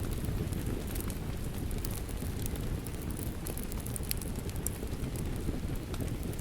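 Steady rush of water, a low dense noise with scattered light ticks and patter over it.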